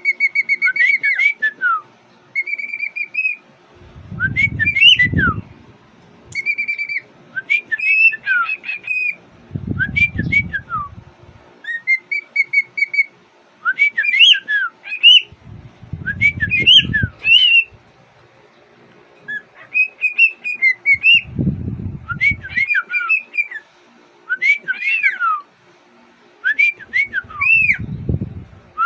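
Young cockatiel whistling its song: short, repeated whistled phrases, some held on one note and some swooping up and down, with brief pauses between them. A dull low rumble comes in about every five or six seconds.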